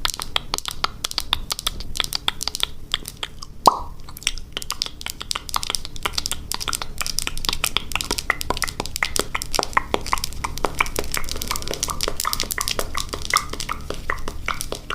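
ASMR mouth sounds close to the microphone: a fast, steady stream of wet clicks and smacks, with one louder pop about four seconds in.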